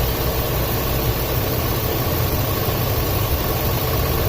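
Ford 5.4 L Triton V8 idling steadily under a hiss, with a cylinder 6 misfire (code P0306) that the mechanic puts down to a very weak ignition coil.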